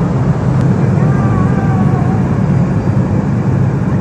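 Steady loud drone of a small private jet's cabin in flight, with the engine and airflow noise centred low.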